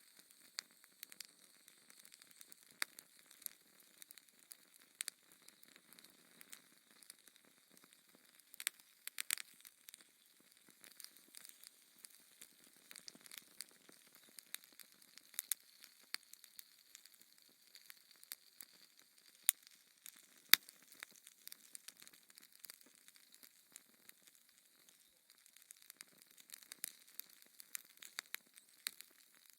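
Fireplace fire crackling: irregular small pops and snaps over a faint hiss, with one sharper pop about two-thirds of the way through.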